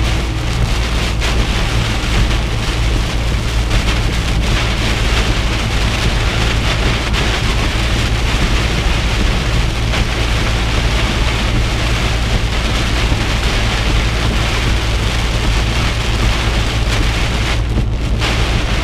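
Heavy rain falling on a moving semi truck, over a steady low rumble of engine and road noise.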